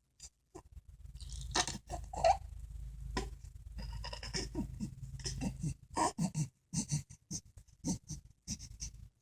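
Close, quiet play sounds: scratching, tapping and rustling of things being handled, with a low rumble through the first half and a few short breathy little vocal sounds in between.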